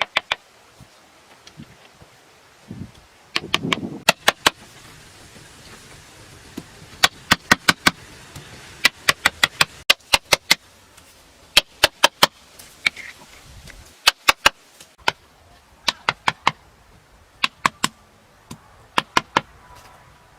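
Sharp hard knocks in quick bursts of three to six strikes, the bursts repeating every second or two, over a quiet outdoor background.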